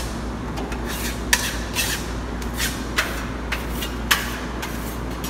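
Metal spatula scraping burnt-cement texture paste across a wall in short strokes, roughly one every half second, over a low steady hum.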